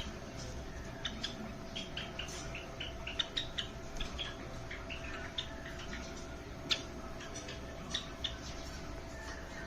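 Java sparrows giving short, high chirps and chips in quick irregular succession, over a steady low hum.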